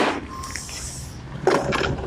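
A sharp knock, then scraping and rustling as a person sits down and settles onto a seat, with a second louder shuffle near the end.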